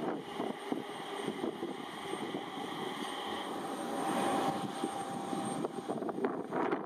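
E721-series electric commuter train running past on its rails, a steady rumble and rattle of wheels, mixed with the steady whine of jet aircraft engines from the airport.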